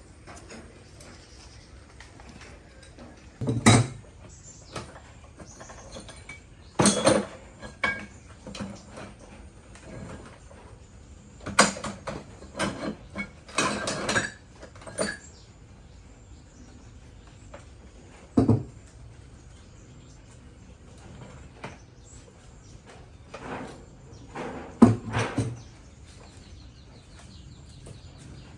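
Metal tools and parts being handled in a workshop: irregular clanks and knocks, about a dozen. The sharpest come a few seconds in, around the middle and near the end, with short bursts of clatter between them.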